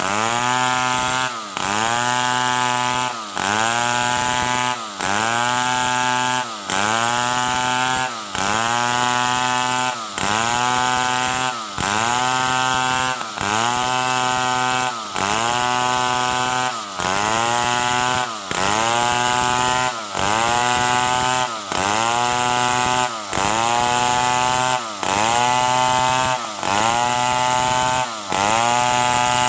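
Stihl 070 two-stroke chainsaw running hard while cutting wood. Its note dips and climbs straight back up in a very regular cycle, about once every 1.7 seconds.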